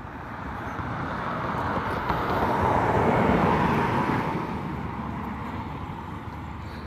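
A vehicle passing by: a broad rushing noise that grows to its loudest about three seconds in, then fades away.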